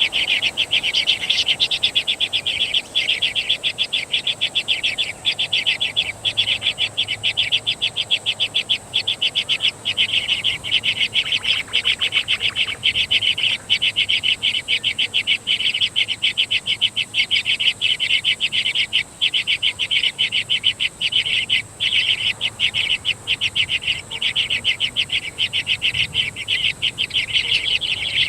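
Bird chicks begging: a fast, unbroken run of high chirps, several a second.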